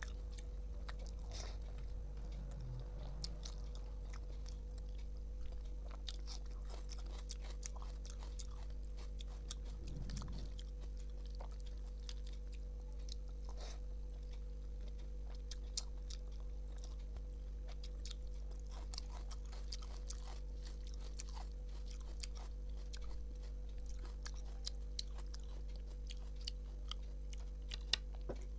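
Close-up eating sounds of rice, dal and curry eaten by hand: soft chewing with scattered wet clicks and smacks over a steady low hum, and a sharper click near the end.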